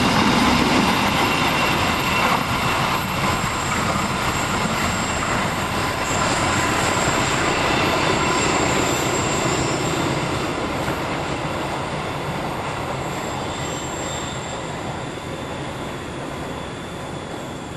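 Freight train's flat wagons rolling along the rails, with steady wheel-on-rail noise and a faint high wheel squeal, slowly fading as the train moves away.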